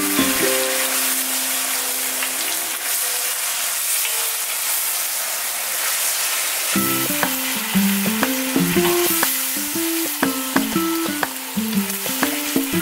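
Vegetables and sauce sizzling in a wok while a wooden spoon stirs them, a steady hiss. Background music fades out early on and comes back a little after halfway.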